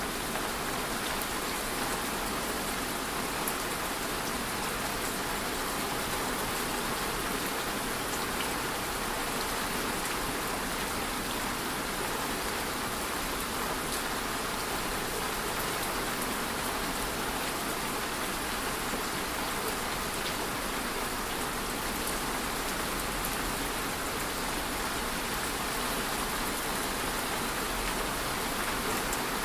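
Steady rain falling, an even patter of drops with no change in strength.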